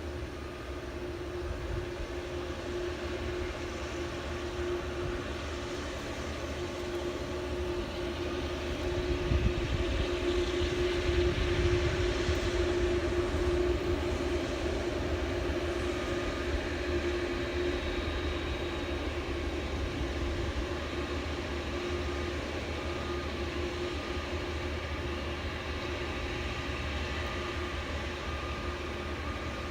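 Steady cabin noise inside a Boeing 787-8 Dreamliner, a rushing rumble with a low steady hum. It grows louder and rougher for a few seconds about a third of the way in, then settles back.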